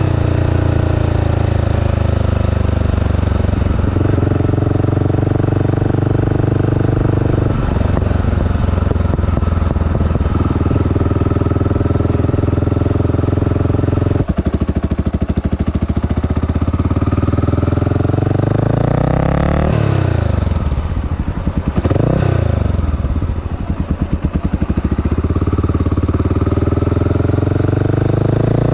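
Honda GB500's single-cylinder four-stroke engine under way, pulling through the gears with the pitch stepping at each shift. About twenty seconds in the revs fall and rise again with a choppy, uneven beat as it slows and picks back up.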